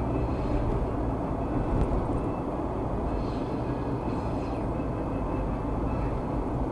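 Steady road and engine noise inside a moving car's cabin, a low, even rumble with no distinct events.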